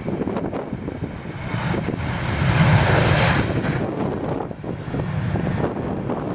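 A landing jet airliner passing, its engine rush swelling to a peak about three seconds in and then easing off, with gusty wind buffeting the microphone.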